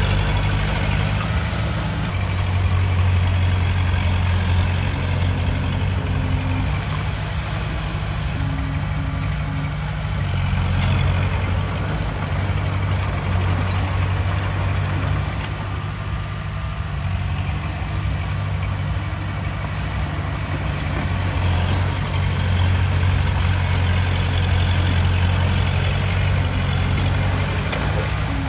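Heavy diesel engine of earth-moving machinery running steadily with a low drone, its level swelling and easing slightly now and then.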